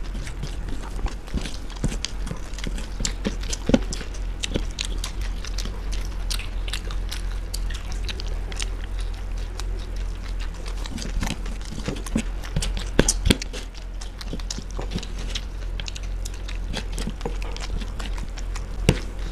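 Close-miked crunching and chewing of masala muri (spiced puffed rice) eaten by hand by two people: a dense run of small crisp crackles with a few louder crunches, about four seconds in, thirteen seconds in and near the end. A steady low hum runs underneath.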